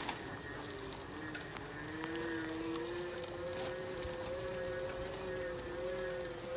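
A bird calling in a regular series of short, high, falling notes, about two a second, starting a couple of seconds in, over a steady, slightly wavering low hum.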